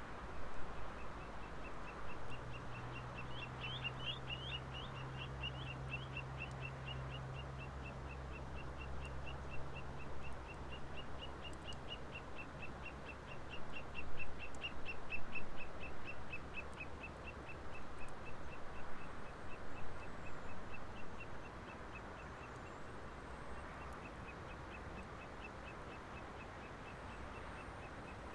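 Wood campfire crackling with irregular pops, while a bird calls a fast, steady series of short high notes, about three a second, through most of the clip. A low hum sits underneath in the first half.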